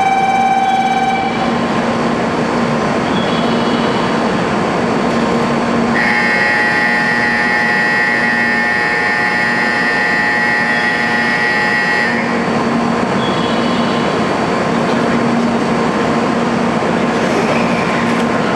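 Train running, a steady rumble of wheels and motors. A high steady whine with overtones comes in about six seconds in and cuts off about six seconds later.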